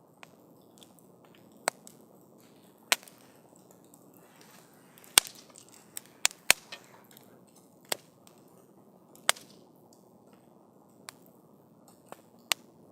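Wood campfire burning with a low steady hiss, crackling and popping with a dozen or so sharp snaps at irregular intervals, the loudest about five and six and a half seconds in.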